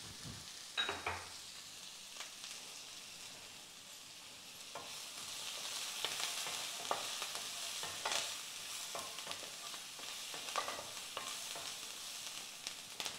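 Onions, green chillies and garlic fried golden brown, sizzling in oil in a nonstick kadai, with a wooden spatula scraping and knocking against the pan as they are stirred. The sizzle grows louder about halfway through.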